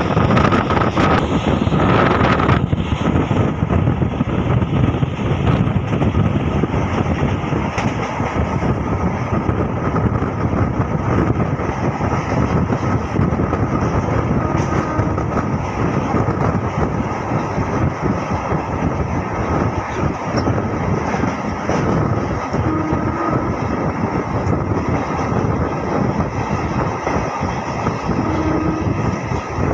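Running noise of a MEMU passenger train heard from an open coach window: a continuous rumble and rush of wheels on track and air. A high steady whine sounds over it for the first couple of seconds, then fades.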